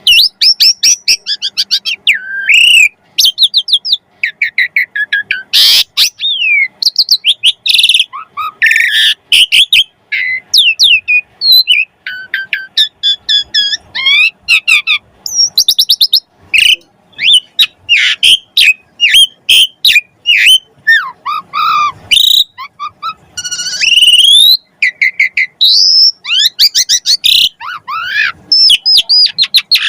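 Asian pied starling (jalak suren) singing hard: a loud, near-unbroken run of varied whistles, chirps, quick trills and rising and falling glides.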